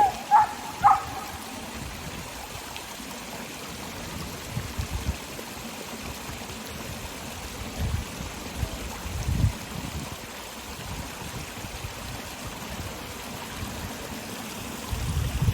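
Water running and splashing steadily in a park water feature, a continuous rush. A few short high-pitched sounds come in the first second, and low rumbles come now and then.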